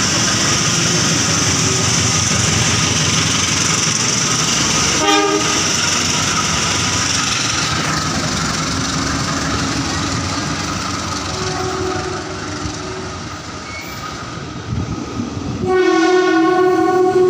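Train running through the station with a steady rumble and wheel noise that eases off after about eight seconds. Its horn gives a brief blast about five seconds in and sounds again, longer and louder, near the end.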